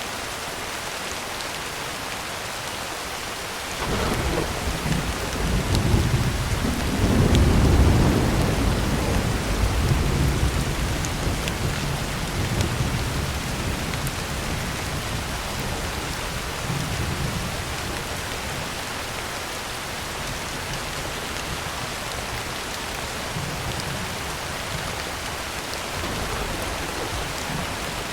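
Heavy rain falling steadily on a tin roof. About four seconds in a roll of thunder breaks in, builds to its loudest a few seconds later, then rumbles away slowly under the rain.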